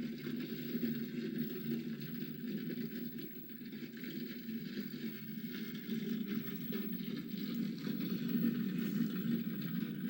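Crackling wood fire from a virtual fireplace video: a steady hiss with fine crackles and pops throughout.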